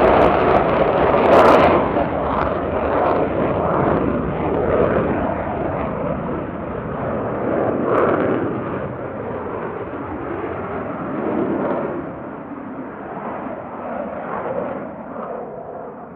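Jet aircraft passing overhead: a loud, crackling engine roar that fades away gradually.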